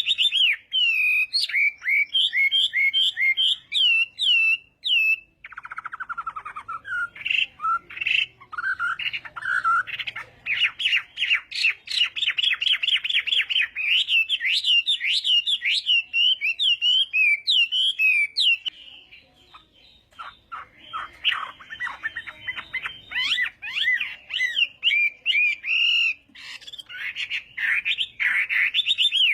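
Chinese hwamei singing a loud, varied song of rapid whistled notes and trills, breaking off for about two seconds around two-thirds of the way through before starting again.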